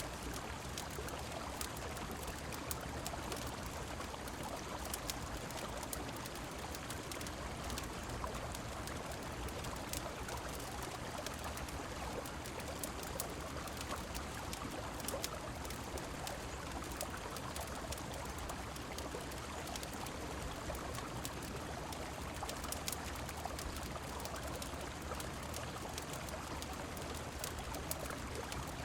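Steady rushing river water and falling rain, with scattered sharp crackles of a wood fire throughout.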